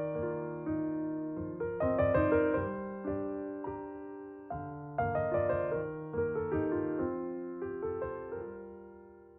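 Gentle solo piano background music, notes struck in slow phrases and left to ring, the last chord fading away near the end.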